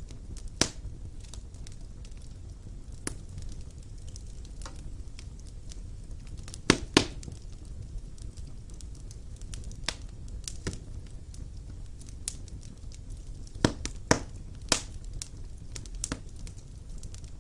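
Wood fire burning in a stone fireplace: a low steady rumble of flames with scattered sharp crackles and pops, the loudest a quick pair about seven seconds in and a cluster around fourteen to fifteen seconds.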